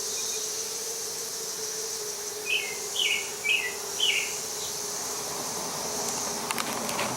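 Honeybees humming steadily around the opened nest, with a steady high insect trill behind them. Starting about two and a half seconds in, a bird gives four short falling chirps.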